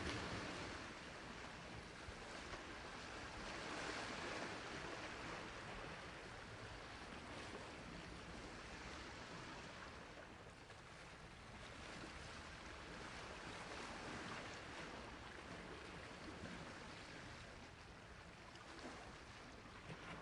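Sea waves washing on a shore: a steady rushing surf that swells and ebbs gently every few seconds.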